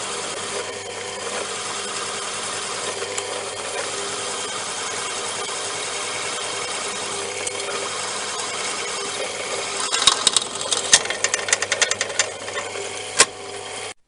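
Small electric power tool, likely a drill, running at a steady speed, then rattling and clicking in quick irregular strokes for the last few seconds before it cuts off abruptly.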